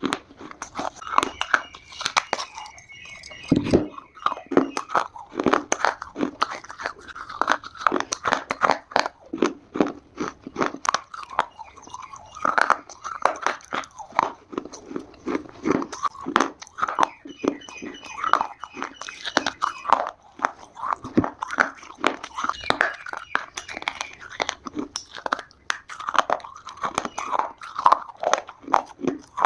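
Dry Multani mitti (fuller's earth clay) being bitten and chewed close to the microphone, in a dense run of crisp crunches with no pause.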